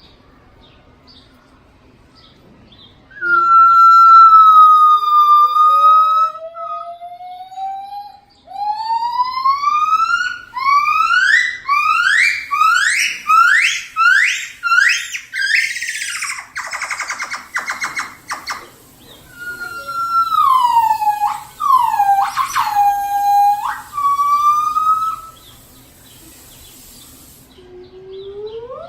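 Gibbon singing: a long held whoop, then a slow rising glide, then a run of rising whoops that come faster and faster into a fast trill, and a few deep swooping notes near the end.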